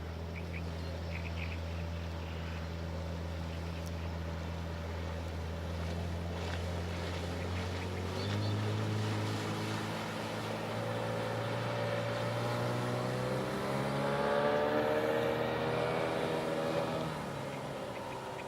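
Suzuki DT 9.9 two-stroke outboard motor running. Its pitch steps up about eight seconds in, climbs further as the engine is throttled up, then drops back near the end.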